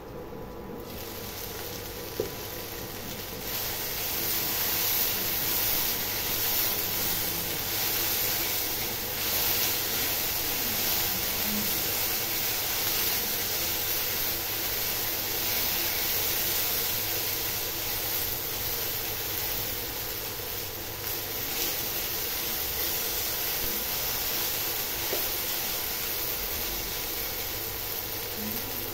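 Chopped okra sizzling as it fries in oil in an uncovered nonstick pan, stirred with a silicone spatula. The sizzle swells in the first few seconds as the glass lid comes off, with a single click about two seconds in.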